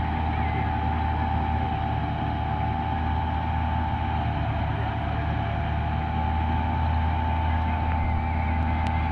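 New Holland combine harvester running steadily while cutting wheat: a deep engine hum under a steady whine from the machine, the whine dipping slightly in pitch about halfway through.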